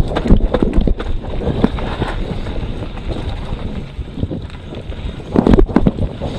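Mountain bike descending a rough, technical trail: tyres rolling over dirt with wind rushing on the microphone, and sharp clattering knocks as the bike hits roots and rocks, a burst near the start and another about five and a half seconds in.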